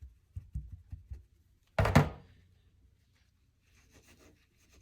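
A few soft knocks, then one loud thud about two seconds in, as things are handled and bumped on the work surface during knife scrubbing. Faint scrubbing starts again near the end.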